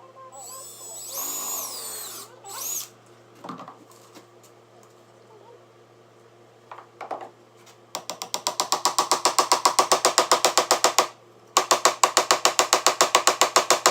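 Handheld drill: a brief whir that rises and falls in pitch, then two long runs of rapid, even clicking pulses at about ten a second, loud, with a short pause between them.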